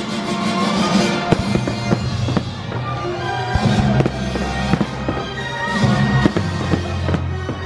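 Fireworks going off in many sharp bangs and crackles, with music playing at the same time.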